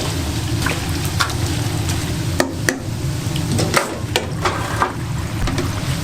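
Twisted donuts deep-frying in hot oil over a steady low hum, with scattered sharp clicks and knocks of utensils.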